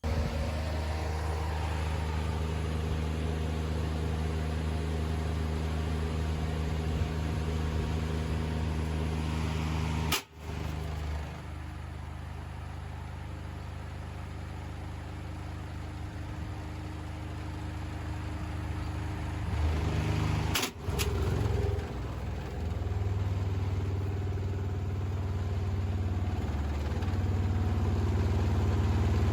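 Washing machine running with a steady motor hum and drum rumble. The sound cuts sharply about ten seconds in and again about twenty seconds in, and grows louder toward the end.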